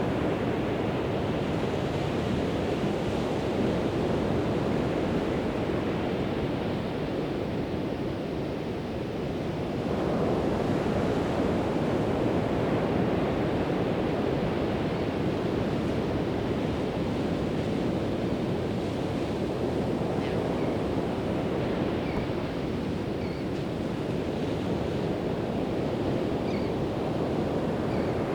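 Pacific Ocean surf breaking and washing onto the beach in a continuous rush, easing slightly and then swelling again about ten seconds in as a new wave comes through.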